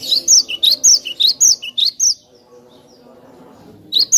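Cinereous tit (glatik batu) singing: about five quick repeats of a sharp two-note phrase, each dropping from a high note to a lower one. A pause follows, and the song starts again near the end.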